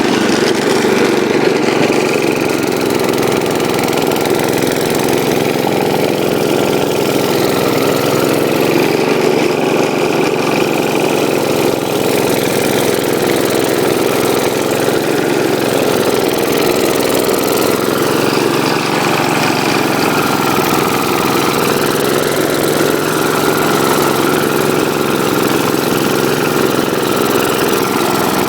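The 12-horsepower Kohler engine of a 1972 Gravely Commercial 12 runs steadily while driving a 34-inch snow blower, its pitch wavering slightly now and then past the middle.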